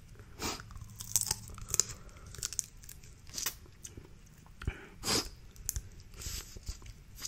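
Close-up crunching and crackling of snow crab leg shells being cracked and picked apart, mixed with chewing: a string of short, sharp cracks, the loudest about five seconds in.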